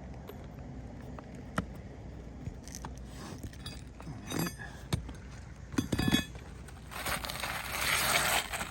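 Asphalt shingles being handled and pried up: scattered sharp clicks and knocks, then a longer scraping rustle about seven seconds in.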